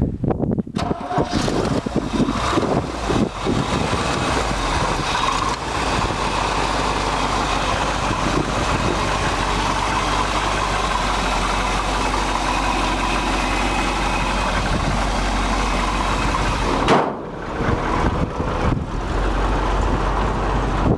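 1971 Chevrolet C-60 grain truck's engine running at a steady idle. About 17 s in it breaks off and gives way to wind buffeting the microphone.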